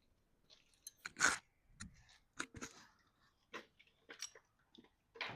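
Hand work on metal garage door hardware: a string of irregular clicks, scrapes and clanks, the loudest about a second in.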